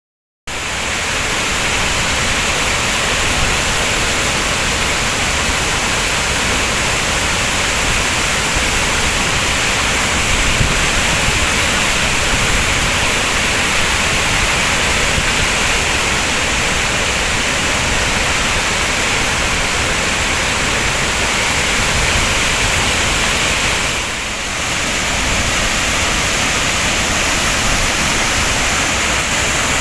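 Loud, steady rush of a waterfall in flood, heavy water pouring and crashing without a break.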